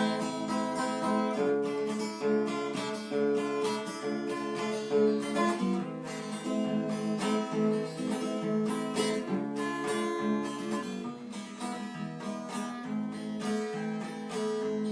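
Instrumental passage on acoustic guitar: quick picked and strummed chords and melody notes, played without singing.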